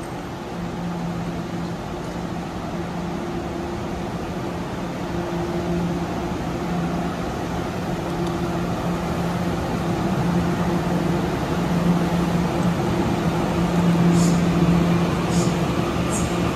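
Puyuma Express TEMU2000 tilting electric train running with a steady electrical hum that grows gradually louder as it pulls out of the station, with a few sharp high clicks near the end.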